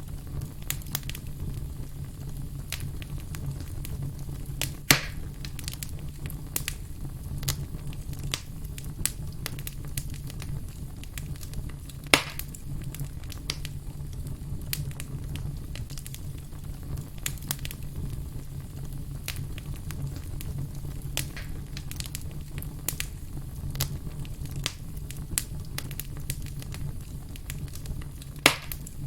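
Wood campfire crackling: a dense run of small snaps over a steady low rumble, with three sharp, louder pops, about five seconds in, about twelve seconds in and near the end.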